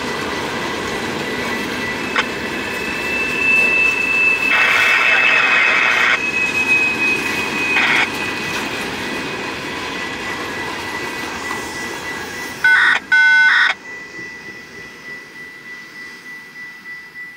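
Freight train cars rolling past, a steady rumble of steel wheels on rail with thin high whines over it. About thirteen seconds in come two short loud tones, and then the train noise falls away.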